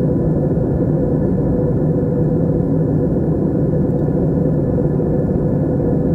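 Steady drone of an aircraft in flight, heard from inside the cabin: a dense low rumble of engines and airflow with a few constant hums, unchanging throughout.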